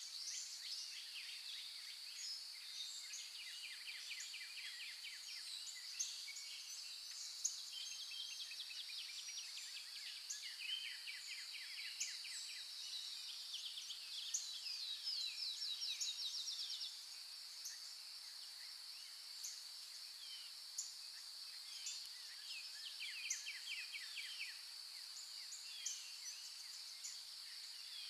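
Birds chirping and calling in short rapid trills over a steady high-pitched insect drone. A louder, faster trill starts about halfway through and cuts off suddenly about two-thirds of the way in.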